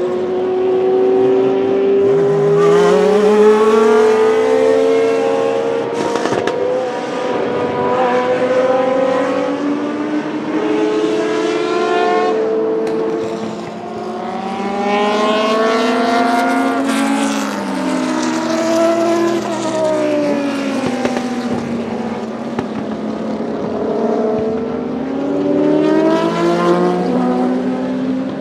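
Historic Group C sports-prototype race cars passing at racing speed. Several engines overlap, each climbing and dropping in pitch through gear changes, in a continuous loud din.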